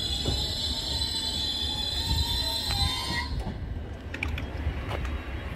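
Class 357 electric multiple unit pulling away, a high-pitched whine over low rumble that cuts off about three seconds in, followed by a few clicks.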